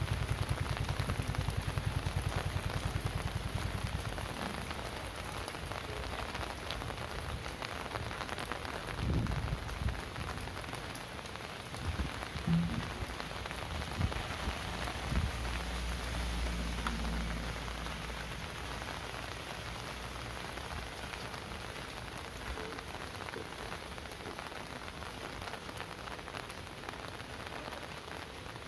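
Heavy rain falling steadily, a dense even hiss of drops on surfaces. An engine's low, rhythmic throb fades out in the first few seconds, and a few low thumps come midway.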